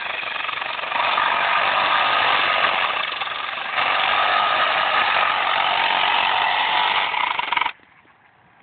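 Battery-powered saw running at full speed and cutting into wood. It is steady apart from a short dip a little after three seconds, and stops abruptly near the end when the trigger is released.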